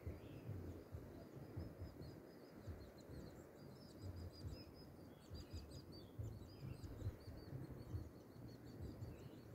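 Small birds chirping: many quick, high chirps, repeated throughout and faint, over a low rumble.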